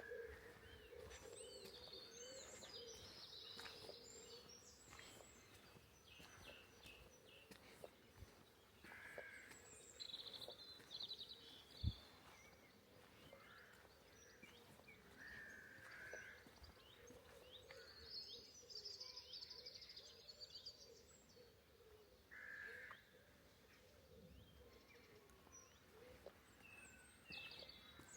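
Faint songbirds singing and chirping in short phrases throughout, with a single low thump about twelve seconds in.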